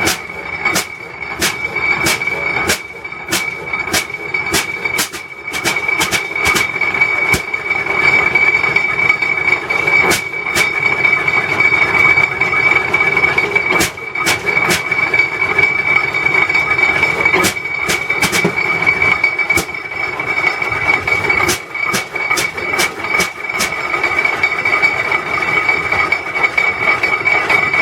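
Antique tractor engine running slowly, firing in sharp, irregular exhaust pops, with a steady high-pitched whine underneath.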